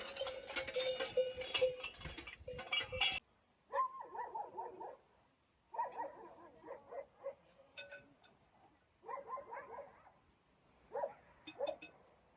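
Dense clattering and rattling for about three seconds, then after a sudden cut a domestic animal calls four times, each call about a second long with pauses between.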